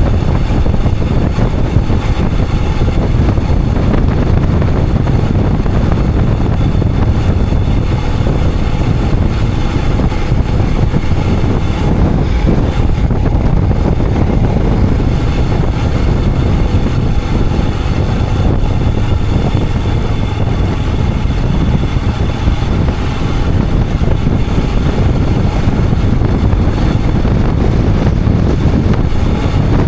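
Royal Enfield Himalayan 411's single-cylinder engine running steadily at riding speed, mixed with wind rushing over the camera microphone.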